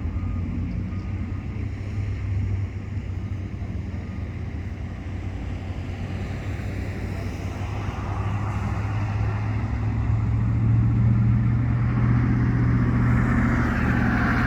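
A motor vehicle's engine running with a steady low hum, growing louder in the second half as if the vehicle is drawing near.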